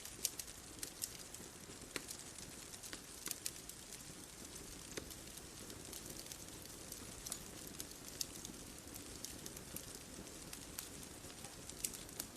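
Bonfire crackling: irregular sharp pops and snaps over a soft steady hiss of burning wood.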